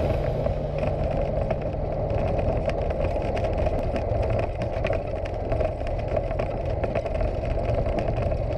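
Cessna 172's piston engine and propeller droning steadily, an even, unchanging drone with no revving.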